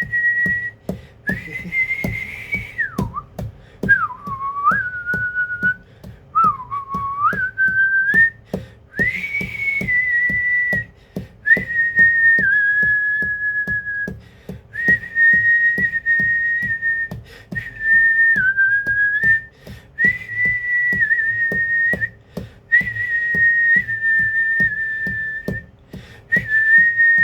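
High, clear whistling tone in a run of long notes, each one to three seconds, mostly held level. A few notes near the start dip and slide down in pitch, with faint clicks underneath.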